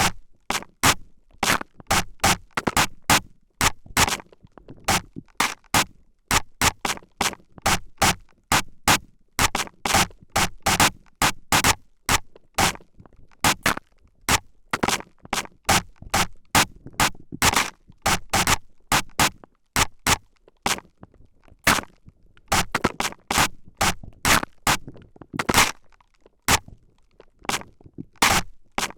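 Spray bottle squirting quick, short sprays at close range into the microphone, about two a second in an irregular rhythm.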